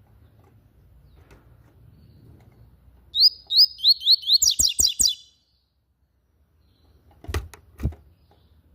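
Yellow-bellied seedeater (papa-capim) singing one phrase about three seconds in: a run of quick rising whistled notes that ends in a faster jumble of notes, lasting about two seconds. Near the end come a few sharp knocks.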